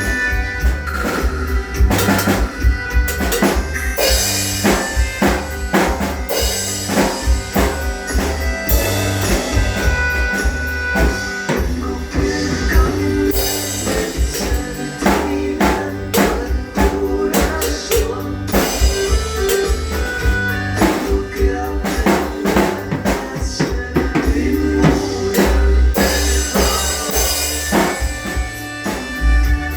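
Drum kit played along to a recorded song's instrumental section: steady strikes on the bass drum and snare over the backing track, with no singing.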